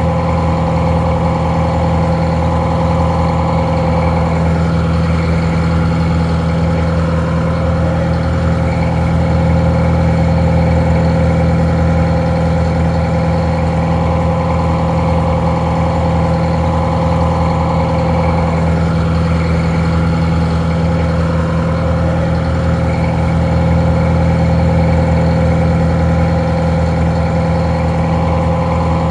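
Detroit Diesel 4-71 two-stroke diesel engine idling steadily, powering a barge winch; the sound is a little muffled.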